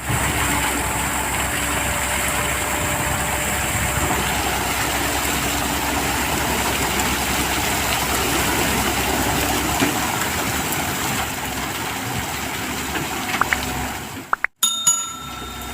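Diesel engine of an L&T Komatsu PC130 hydraulic excavator running steadily, cutting out abruptly near the end.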